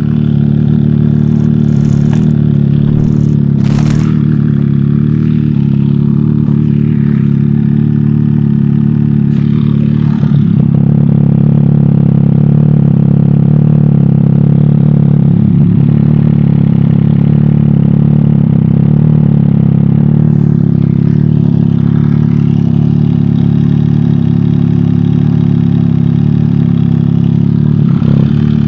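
MV Agusta Dragster 800 RR's three-cylinder engine idling steadily, with a few sharp clicks about two to four seconds in.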